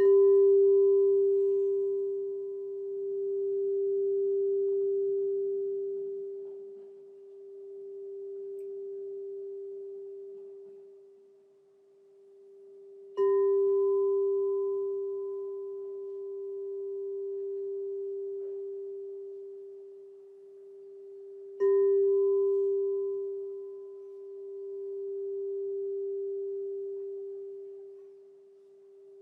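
Crystal singing bowl struck three times, each strike ringing on as one long, pure low tone with a fainter higher overtone. The ring swells and fades slowly in a pulsing beat, every few seconds, as it decays.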